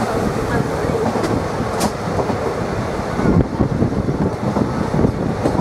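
Passenger train running on the track: a steady rumble with wheels clattering over the rails, the knocking growing denser from about three seconds in.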